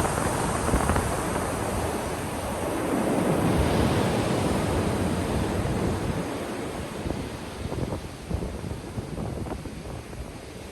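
Ocean surf on a beach. One wave builds and breaks loudest about three to four seconds in, then washes out and fades.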